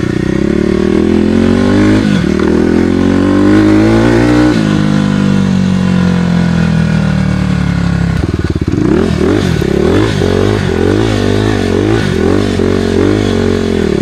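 Kawasaki KLX300R dirt bike's single-cylinder four-stroke engine under way. Its pitch climbs and drops back twice, like upshifts, and about 8 seconds in it changes to quick rises and falls of the revs as the throttle is worked on and off.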